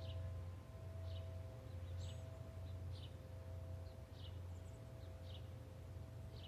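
A small bird calling with short, quick chirps that drop in pitch, repeated about once or twice a second, over a steady low hum.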